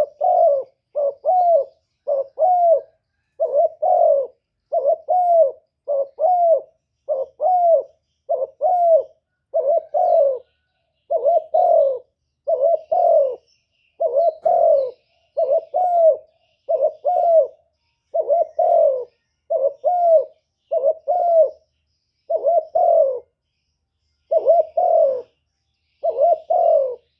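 A bird calling in short pairs of mellow notes, one pair about every second and a half, repeated steadily over and over.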